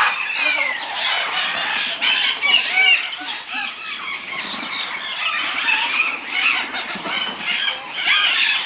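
A dense chorus of many parrots calling at once: overlapping shrill squawks, squeals and short whistled glides, with no pause.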